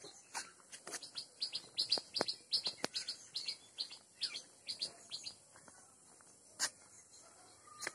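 Small birds chirping in quick runs of short, high notes, busiest in the first half and thinning out later, over a faint steady high hiss. A few sharp clicks stand out, the clearest about two and three seconds in and another near the end.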